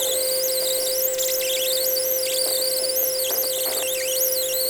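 Power wire wheel scrubbing corrosion off the engine cases of a Yamaha 350 Warrior engine: a steady tool hum under a high-pitched squeal that wavers up and down as the brush moves over the metal.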